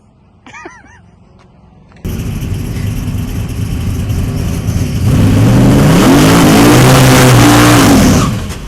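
A car accelerating hard at full throttle. The noise comes in suddenly about two seconds in and grows much louder. The engine's pitch climbs and then falls before the sound cuts off abruptly near the end.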